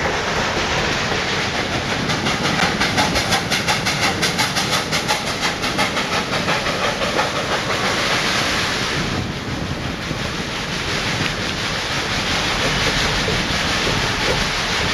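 Western Maryland Scenic Railroad steam train passing close by: a loud, steady hiss and rumble with a rapid, even beat of about three to four pulses a second for several seconds, easing briefly about nine seconds in before running on more steadily.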